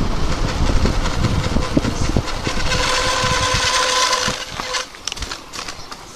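Electric bike on the move: wind buffeting the microphone over tyre rumble and rattling knocks. About two and a half seconds in, a steady high squeal with a hiss sounds for about two seconds. Then the noise drops away and gets much quieter.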